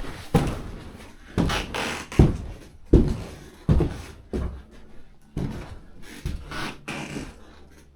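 Heavy footsteps walking at an uneven pace, about a step every three-quarters of a second, with knocks.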